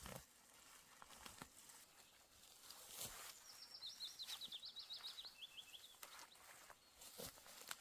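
Quiet forest ambience. A songbird sings one fast trill of short, sliding high notes that steps down to lower notes at its end, lasting about two and a half seconds. A few soft knocks or rustles are scattered through it.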